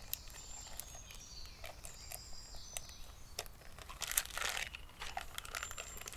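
Crinkling and rustling from handling, with scattered sharp clicks and a louder rustle about four seconds in. A few faint, thin, high notes step down in pitch during the first three seconds.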